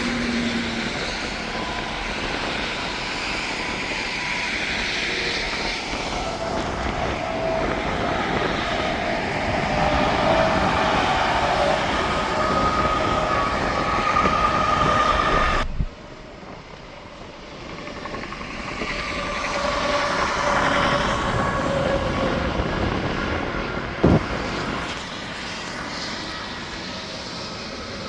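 Highway traffic with heavy trucks passing at speed: a steady rush of tyre and engine noise with a humming whine that swells and fades. It cuts off abruptly about halfway through, then builds again as another vehicle passes, with one sharp click about three-quarters of the way in.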